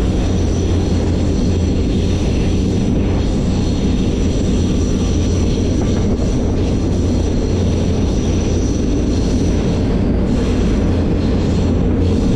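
Moving freight train heard from aboard a car: a steady, loud rolling rumble of wheels on rail with a deep hum underneath.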